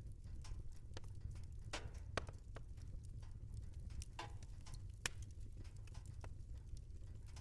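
Wood fire crackling, with irregular sharp pops and snaps over a steady low rumble; the loudest pops come about two seconds in and again around five seconds.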